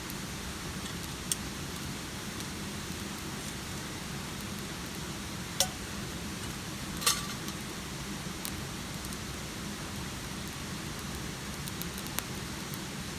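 Steady rain falling, with a few sharp clicks or cracks over it, the loudest two in the middle.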